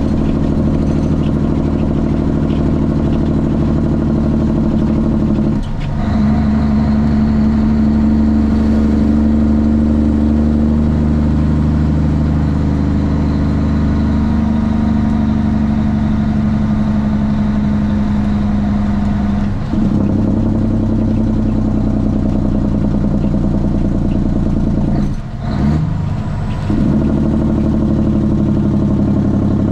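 Straight-piped Cummins ISX inline-six diesel in a Kenworth T800 running under way, loud and steady. The sound dips briefly three times and the engine comes back at a changed pitch each time.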